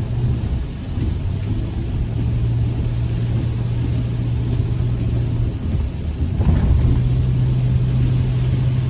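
Road noise inside a moving car's cabin: a steady low drone of engine and tyres with a low hum, and a brief bump about six and a half seconds in.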